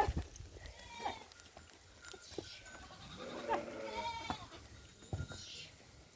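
Goats bleating: a few separate wavering calls, a short one about a second in and a longer one about three and a half seconds in, with a couple of light knocks.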